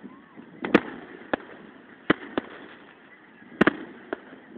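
Fireworks going off: about seven sharp bangs at irregular intervals, the loudest a quick double bang about three and a half seconds in.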